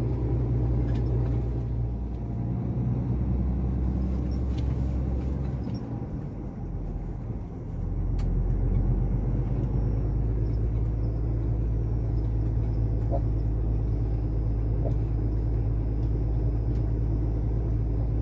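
Iveco truck engine pulling a heavy container load of logs, its low drone shifting pitch in steps. It dips about six seconds in and picks up again at about eight seconds, running steadily after that.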